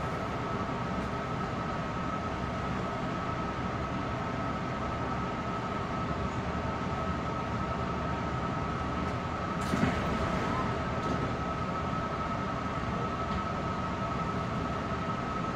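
Long Island Rail Road M3 electric train car standing still at a station platform: a steady hum from its onboard equipment with a constant high whine, and a single brief knock about ten seconds in.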